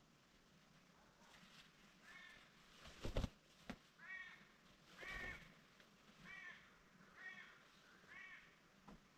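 A crow cawing repeatedly, about six faint arched caws roughly a second apart. About three seconds in there is a loud double knock, with a lighter knock shortly after.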